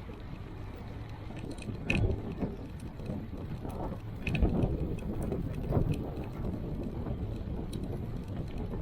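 A bicycle being ridden: a steady low rumble with rattling and clicking from the bike, and sharper knocks about two seconds in and again around four and a half and six seconds in.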